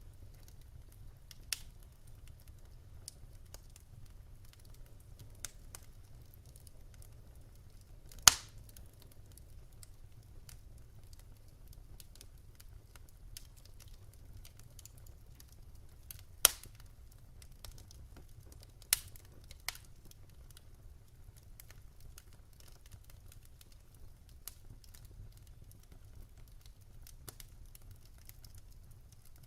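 Wood fire burning in a fireplace: a low steady rumble with sparse, sharp pops and crackles every few seconds, the loudest pop about a quarter of the way in.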